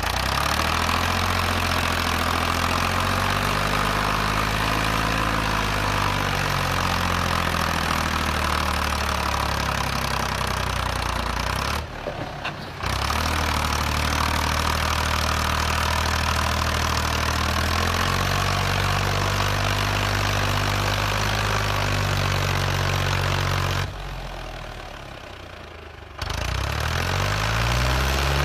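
Ford tractor engine running, its pitch rising and falling several times as the engine speed changes. The sound drops out briefly twice, about twelve seconds in and for a couple of seconds near the end.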